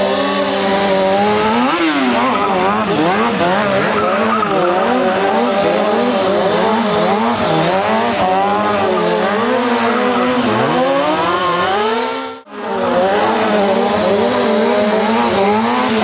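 Stunt motorcycle engine revving up and down over and over with tyre squeal, as in a spinning or drifting trick. The sound drops out suddenly for a moment about twelve seconds in.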